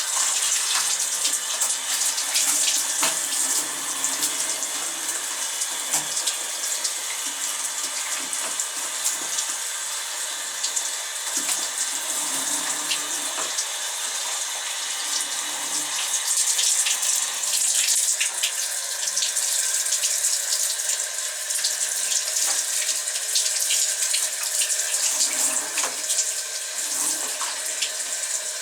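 Tap water running steadily and splashing as a pigeon is rinsed under it, with many small splashes and drips throughout.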